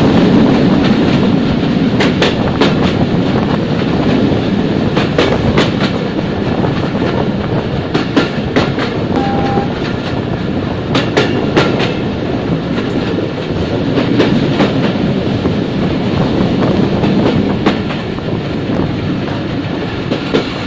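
Passenger train running on the track, heard from aboard: a steady rumble with the wheels clicking and clacking irregularly over rail joints.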